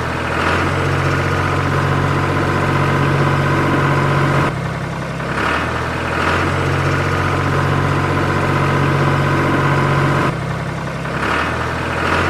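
A motor running steadily, with a low hum and a higher whine. The sound goes in a cycle that repeats about every six seconds, with a brief dip and a sweep in pitch at each turn.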